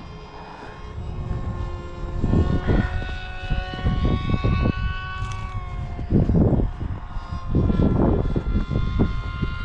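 Electric motors and propellers of foam RC combat wings whining steadily, their pitch sliding slowly up and down. From about two seconds in, repeated gusts of wind buffet the microphone.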